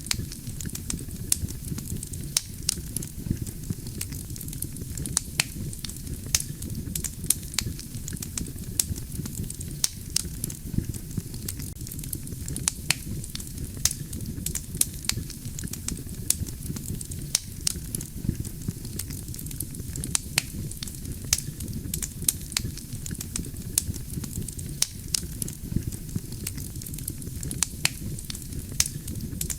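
Wood campfire burning: a steady low rumble of flames with irregular sharp crackles and pops from the burning logs, several a second.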